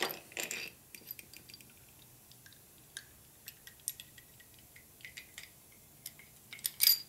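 Small steel engine parts, the rocker arms of a Harley-Davidson panhead, clicking and clinking as they are handled and set down on a workbench, with a louder clink near the end.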